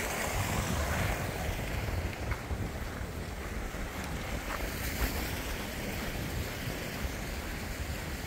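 Wind buffeting the microphone: a gusting low rumble over a steady rushing hiss, with a few faint ticks.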